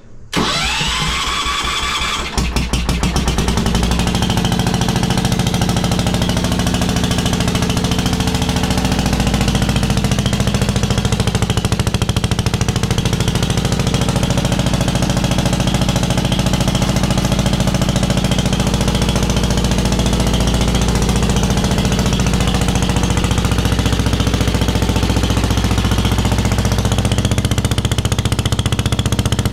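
The 1973 Wheel Horse's 10 hp Kohler single-cylinder engine cranks with a rising starter whine for about two seconds, then catches. It runs steadily and loudly through a bare galvanized pipe exhaust with no muffler.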